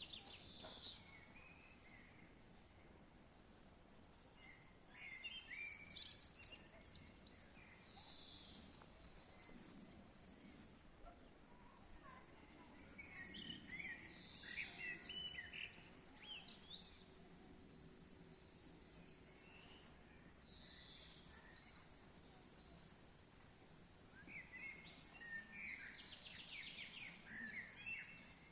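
Several birds singing and chirping, with short high notes repeated about once a second and busier bursts of trills at times, over a faint outdoor background hiss.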